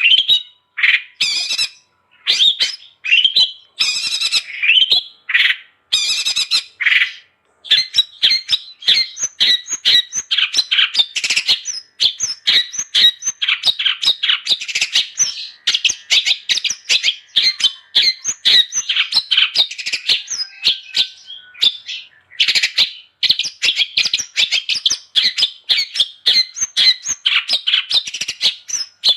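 Long-tailed shrike (cendet) singing: a few separate harsh phrases at first, then a fast, unbroken chatter of short notes that pauses briefly about two-thirds of the way through and starts again.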